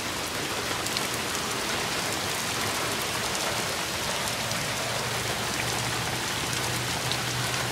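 Heavy rain pouring down onto standing floodwater and sodden grass: a steady, even hiss of drops hitting the water's surface.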